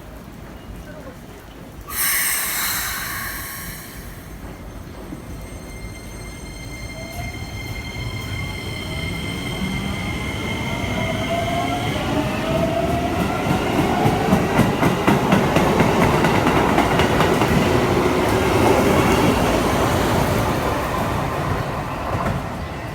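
Keikyu New 1000 series electric train pulling away: a sudden burst of hiss with several steady high tones about two seconds in, then rising whines from its Toyo Denki drive as it accelerates, with wheel-on-rail clatter growing louder and fading near the end. The drive is a little higher-pitched and unusual-sounding than normal, which the uploader puts down to the wet rails on a rainy day.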